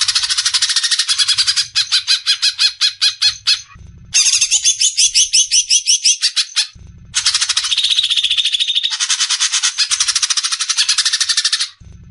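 Cucak ijo (leafbird) giving its rapid rattling 'besetan' call: fast strings of sharp repeated notes, about ten a second, in three long bursts with short breaks about four and seven seconds in.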